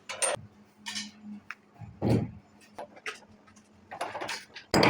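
Intermittent short clicks and knocks, about one every half second to second, over a faint steady hum in the first second or so.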